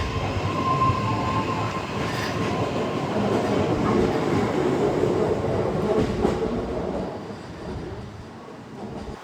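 Train running on the rails: a loud, dense rumble with a thin ringing tone over it for the first couple of seconds. It dies down from about seven seconds in.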